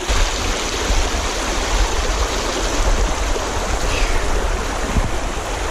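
Shallow mountain headwater stream running over rocks: a steady rush of water with a deep rumble underneath.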